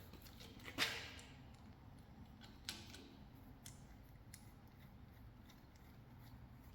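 Hard parts being handled: a sharp click with a short ring about a second in, a smaller click near three seconds, then a few faint ticks over a low steady hum.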